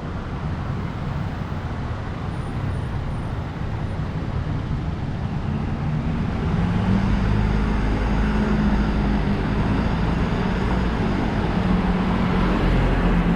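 Street traffic, with a vehicle's engine hum growing louder about halfway through and then holding steady close by.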